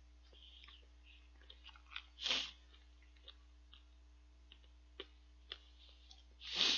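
A man chewing chicken feet close to a microphone, with many small soft mouth clicks. Two short, louder breaths come through, one about two seconds in and one near the end.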